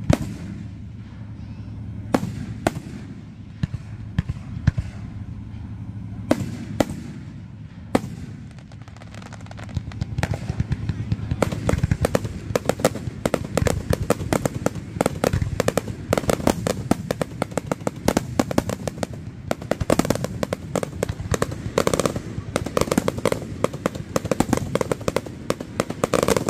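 Aerial firework shells bursting: scattered single booms at first, then, about ten seconds in, a dense, rapid barrage of bangs and crackling.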